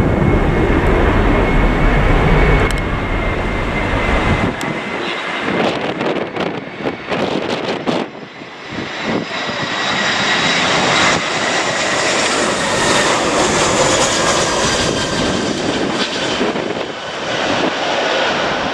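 Jet airliner engines: a deep rumble with a steady high whine that drops away after about four seconds, then a swelling rush of engine noise with a high whine building from about nine seconds in.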